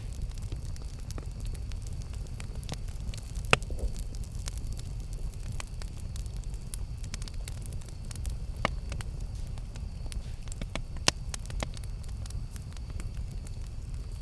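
Campfire burning with a steady low rumble of flame and scattered sharp crackles and pops of the wood, the loudest pops about a third of the way in, past halfway, and near three quarters through.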